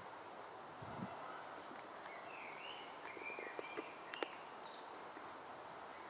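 Outdoor background hiss with a small bird chirping in short rising-and-falling notes in the middle, a few faint clicks, and one sharp click about four seconds in.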